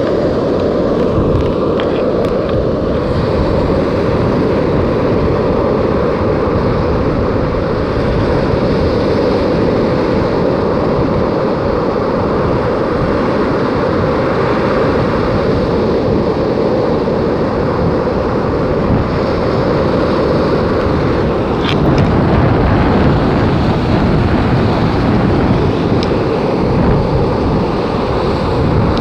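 Storm wind buffeting the microphone with a loud, steady rumble, over the surf of a stormy sea.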